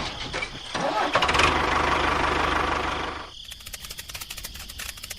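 A small engine running steadily, then dropping to a quieter, rapid even ticking like an idle about three seconds in.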